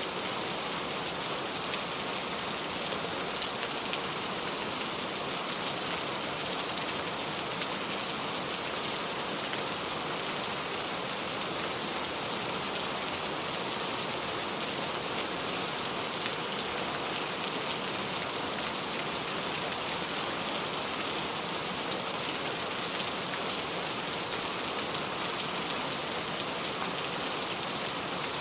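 Heavy rain pouring steadily, with a dense patter of drops on a surface.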